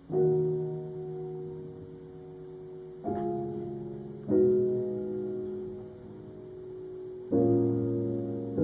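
Slow solo piano music: four chords struck a few seconds apart, each ringing on and slowly fading.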